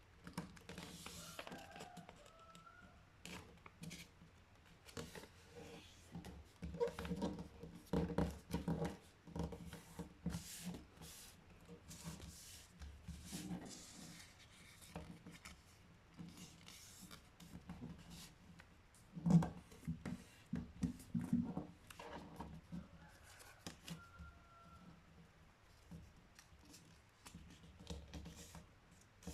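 A sheet of printer paper being handled and folded by hand: irregular rustling and crinkling, broken by short sharp creasing clicks. One louder crack comes about two-thirds of the way through.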